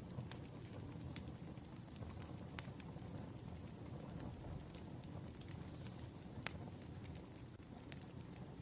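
Wood fire burning: a steady low rush of flames with sharp crackling pops at irregular intervals, a few of them louder than the rest.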